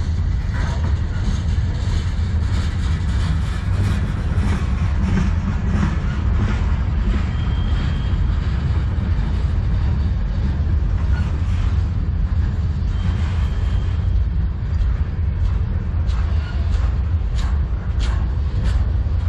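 Freight train cars rolling past close by: a steady, heavy low rumble of steel wheels on rail, with scattered clicks and clacks as the wheels cross rail joints, coming more often near the end.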